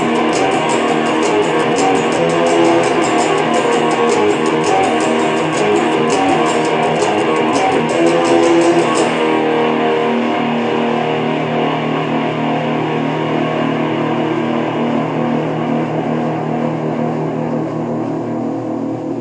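Solo guitar improvisation: fast, dense strumming for about the first half, then a held chord left ringing that slowly fades toward the end.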